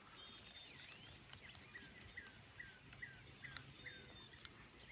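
Faint birdsong: a bird repeats a short downward chirp about twice a second through the middle, with a few high thin whistles, over a low background hiss and a few faint clicks.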